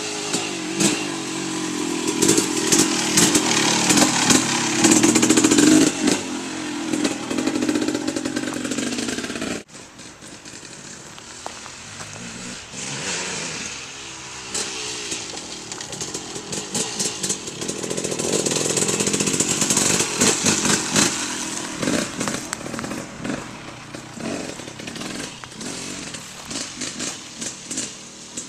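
KTM 300 MXC two-stroke dirt bike engine revving up and down as it is ridden around. The sound drops suddenly about ten seconds in, then builds to a second peak past halfway and fades.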